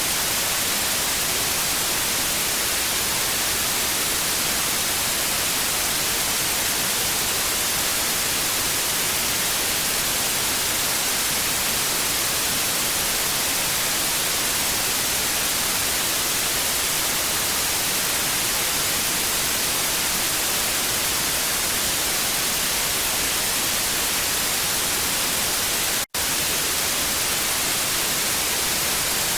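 Television static: a steady, even hiss, strongest in the high frequencies, with a split-second dropout near the end.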